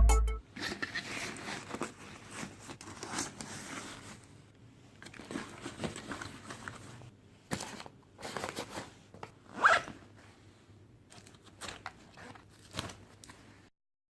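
Faint, irregular scratching and rustling, with one louder rasping stroke about ten seconds in.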